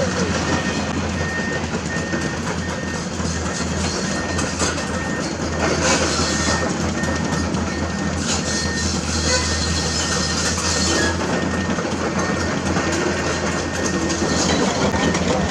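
Komatsu hydraulic excavator's diesel engine running steadily under work, with clanking and scraping of limestone rock. The scraping grows louder about six seconds in and again from about eight to eleven seconds in.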